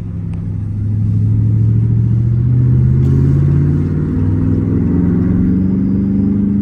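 Car engine accelerating under load, its note climbing steadily for several seconds, then falling suddenly at the very end as it shifts up.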